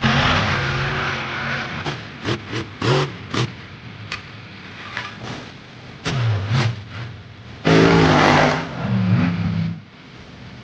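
Monster truck engines revving in repeated bursts, the pitch sweeping up and falling back: a string of short blips, then a longer, loudest rev about eight seconds in.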